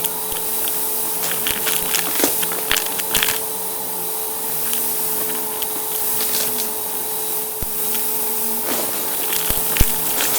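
Vacuum cleaner running with a steady motor whine, its spinning brushroll crunching over debris in scattered sharp crackles that come thickest a couple of seconds in and again near the end.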